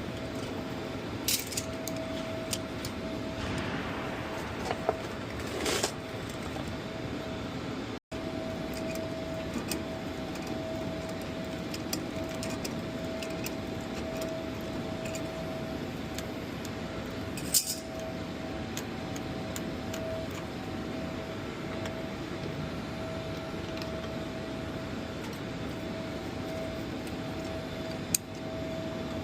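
Hand tools clinking against metal engine hardware now and then, a few sharp clicks spread out, over a steady hangar background hum with a faint steady whine.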